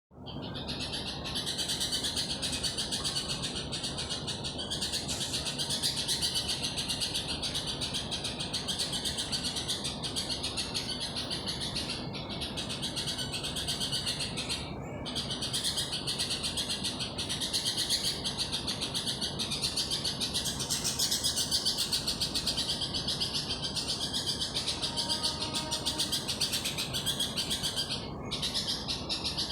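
A bird calling at night with a high-pitched, rapidly pulsing, rhythmic call that goes on almost without a break, pausing briefly a few times.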